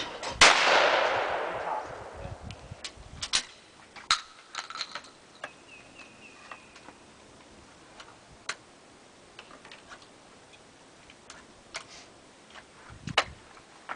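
A single 12-gauge shotgun shot about half a second in, echoing and dying away over about a second and a half. Scattered sharp clicks and knocks follow, with another near the end.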